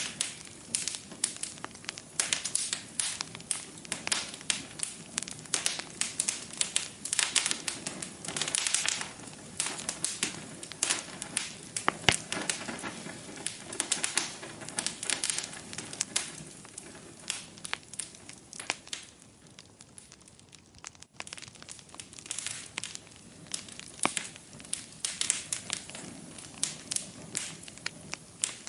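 Wood fire crackling in a fireplace: a steady run of irregular sharp pops and snaps over a soft hiss, thinning out briefly about two-thirds of the way through.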